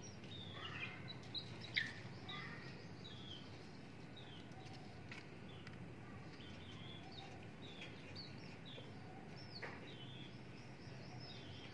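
Small birds chirping over and over, short falling chirps, over a steady low background noise, with a few sharp clicks, the loudest about two seconds in.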